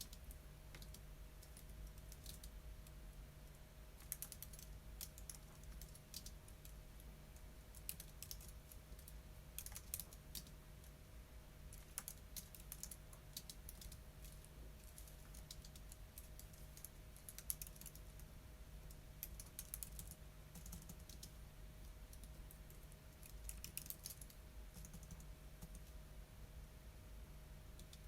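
Computer keyboard typing in short bursts of quick, faint keystrokes with brief pauses between them, over a faint steady hum.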